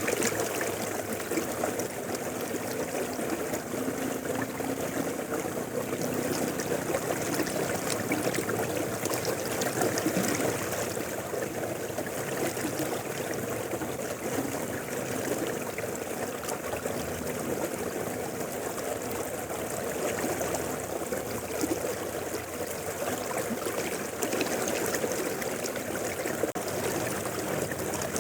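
River water flowing over rocks: a steady rushing and babbling with no let-up.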